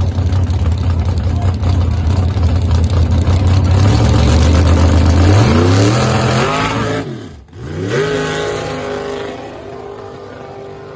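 Drag car engine rumbling loudly at the line, then revving up in a climbing pitch as it launches. About seven and a half seconds in the sound drops out briefly, then climbs again and fades steadily as the car pulls away down the strip.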